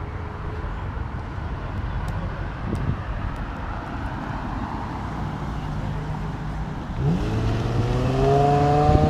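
Car engines rumbling at low speed, then about seven seconds in one car accelerates hard, its engine note climbing and getting louder as it pulls away.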